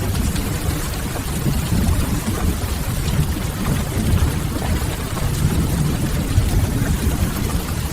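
Steady rain ambience: an even hiss of rainfall over a constant low rumble, with no distinct breaks or events.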